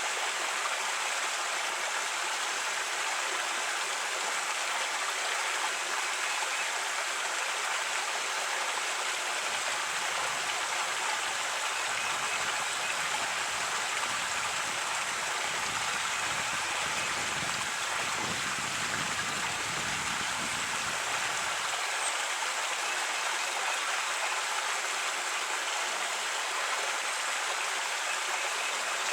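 Creek water running over rocks, a steady rushing hiss. A deeper rumble rises underneath it for about ten seconds in the middle.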